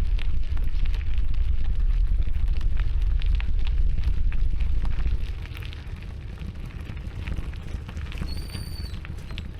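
Wind buffeting the microphone: a heavy low rumble with crackling, easing about five seconds in. A brief high whistle-like tone near the end.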